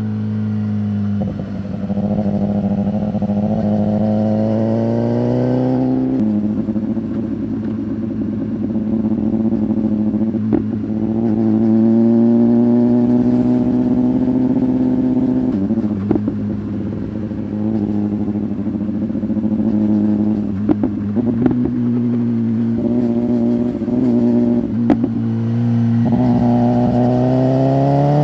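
BMW S1000RR's inline-four engine running through an Arrow aftermarket exhaust under way: the engine note climbs steadily, drops sharply at each upshift about six seconds in and again about halfway, then climbs again near the end. A few sharp clicks or pops are scattered through it.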